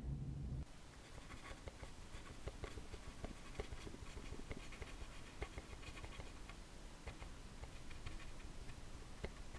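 Light, irregular scratching and small taps of hand craft work on a hard surface, like a brush or pen being worked in short strokes. A low hum stops about half a second in.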